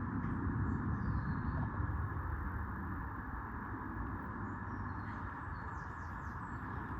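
Steady low rumble and hiss of woodland background, with a few faint, high bird chirps.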